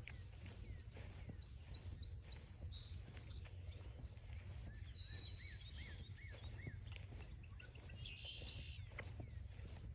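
Several songbirds calling and singing in overlapping short chirps and whistles, including a quick run of repeated rising-and-falling notes, over a low steady rumble.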